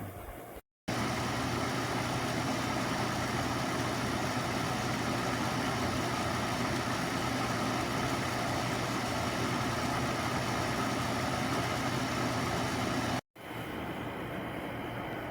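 SereneLife portable air conditioner running: a steady rush of air from its fan over a constant low hum. The sound breaks off briefly just after the start and again near the end, and is a little quieter after the second break.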